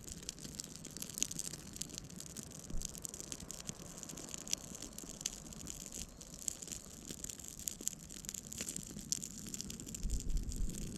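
Small campfire of birch bark and sticks crackling and popping as it catches, with a low bump near the end.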